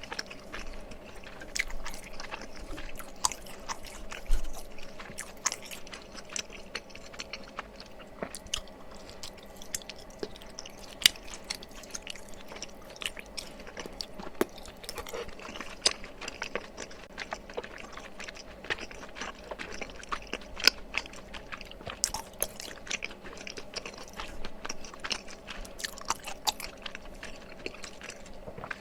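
Close-miked chewing of mala tteokbokki: irregular wet mouth clicks and smacks as soft rice cakes and toppings are bitten and chewed, without pause.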